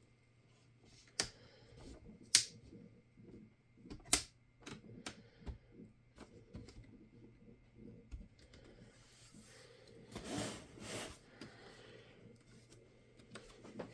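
Sharp clicks and taps of hard plastic laptop parts and tools being handled during disassembly. Three loud clicks come about 1, 2.5 and 4 seconds in, lighter ticks fall between them, and a longer rustling scrape follows about 10 seconds in.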